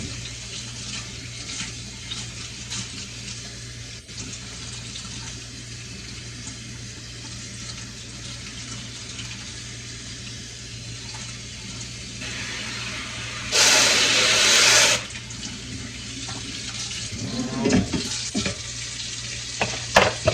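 Water running steadily, with a louder rush of water for about a second and a half partway through, and a few knocks near the end.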